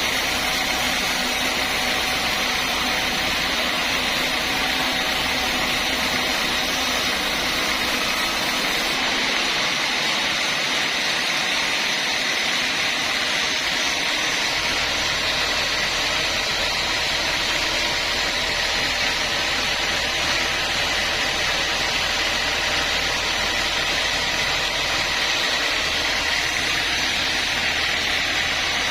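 Sawmill saw machinery running steadily, giving an unbroken loud noise with a high tone. The low rumble underneath fades out for a few seconds near the middle, then returns.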